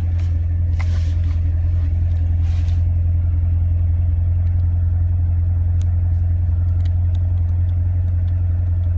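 2016 Corvette Stingray's 6.2-litre V8 with performance exhaust idling at a steady, even pitch, with no revving heard. A brief rushing noise runs through the first few seconds.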